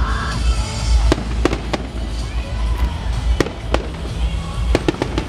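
Aerial fireworks bursting: about eight sharp bangs spaced irregularly, three in quick succession near the end, over a steady low rumble.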